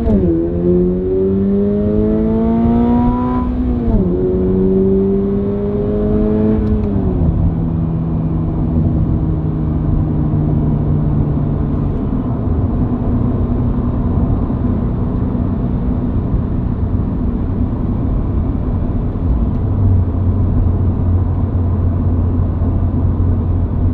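Toyota GR86's 2.4-litre flat-four running through a Magnaflow NEO catback exhaust as the car accelerates through the gears. The pitch climbs and drops sharply at three upshifts in the first seven seconds, then settles into a steady cruise with a low hum.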